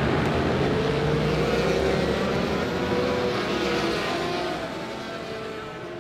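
Racing motorcycle engine running at high revs, its pitch climbing, then fading out over the last couple of seconds.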